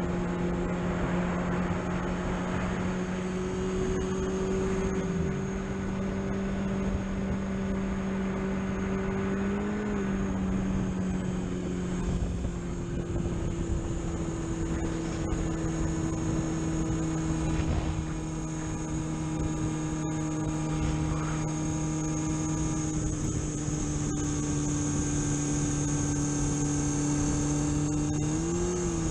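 Vehicle engine running steadily under way, its pitch sinking slowly, with short rises in pitch about ten seconds in and again near the end.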